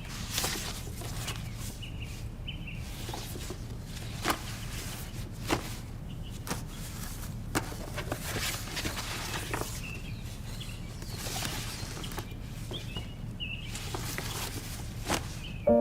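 Quiet background hum with a few soft footsteps or light knocks, several about a second apart in the middle, and faint short high chirps now and then.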